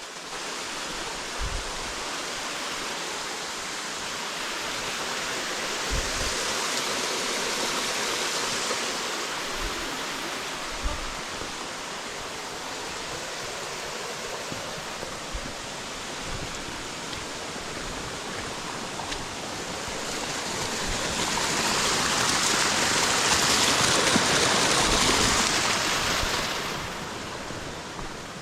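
River water rushing over rocks in a steady hiss. It grows louder for a few seconds about a quarter of the way in, and more strongly for several seconds near the end.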